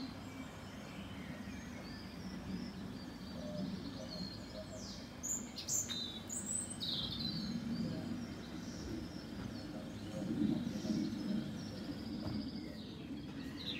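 Small birds chirping in short, high calls, a cluster of them about five to seven seconds in and more near the end, over a steady low background hum.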